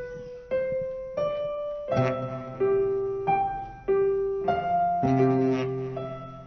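Piano playing a slow ballad intro: a few single notes stepping upward, then notes and chords struck about every half second, each ringing and fading away.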